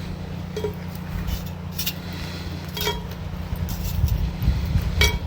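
Metal tongs clinking against hot coals and a cast-iron Dutch oven as coals are picked up and set on its lid: three sharp, briefly ringing clinks, with more knocking near the end, over a steady low hum.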